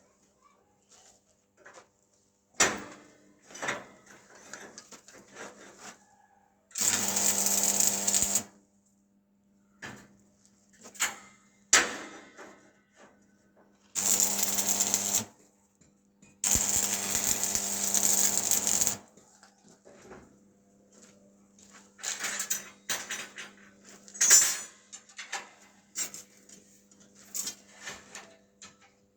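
Metalworking sounds: three short runs of a steady electric buzz with a hiss on top, the longest about two seconds, between scattered sharp metal clicks and knocks.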